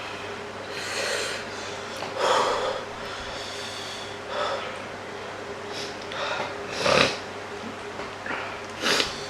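Heavy breathing with sharp sniffs and snorts through a running nose, about six loud breaths spread out, the loudest near the end: a person recovering from the burn of very spicy instant noodles.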